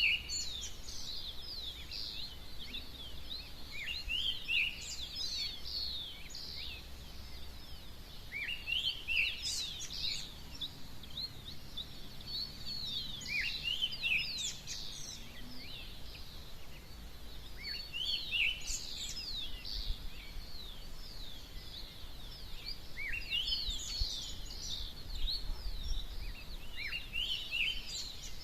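Several birds chirping and calling at dawn: rapid, overlapping high-pitched chirps that sweep downward, coming in bouts every few seconds, over a faint low rumble.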